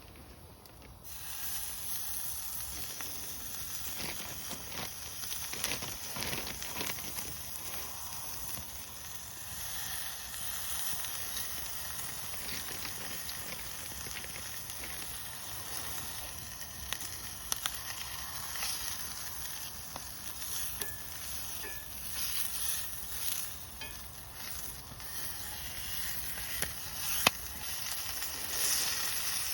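Food sizzling in a pan over a fire, a steady hiss that starts about a second in, with scattered sharp crackles.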